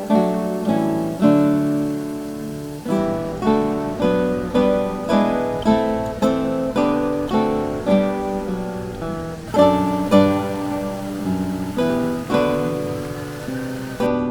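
Background music: an acoustic guitar playing a slow Christmas carol arrangement in single plucked notes and chords, each note ringing and fading.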